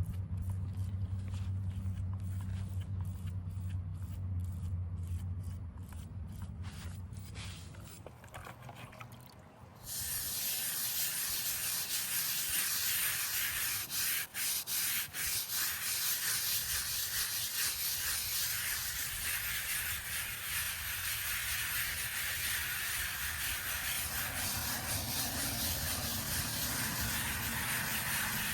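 Abrasive rubbing on a headstone's stone surface: a steady scratchy hiss that starts abruptly about a third of the way in, after a stretch of low hum and scattered clicks.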